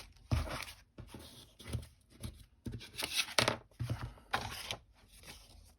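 Patterned craft paper being handled and worked against a notebook cover: a string of short, irregular rustles and scrapes, a few of them louder about three to four seconds in.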